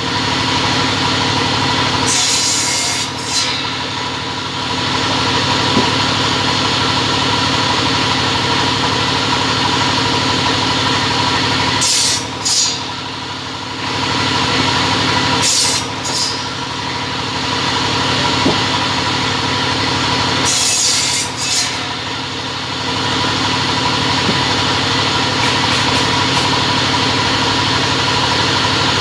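A two-head cutting machine running steadily with a motor hum, broken four times by short, harsh, high-pitched cutting bursts: about two seconds in, twice around the middle, and again about two-thirds of the way through.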